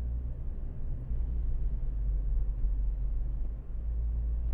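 Low, steady road and drivetrain rumble heard inside the cabin of a 2012 Ford Focus automatic while it is being driven. The faint chassis creak being tested for is not picked out above the rumble.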